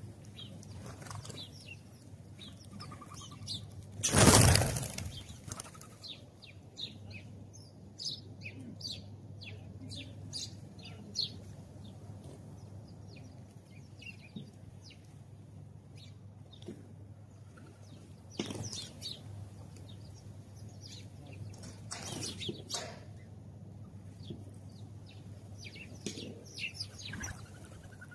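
House sparrows chirping in short, repeated high notes. A loud whoosh cuts in about four seconds in, with softer ones later, over a faint steady low hum.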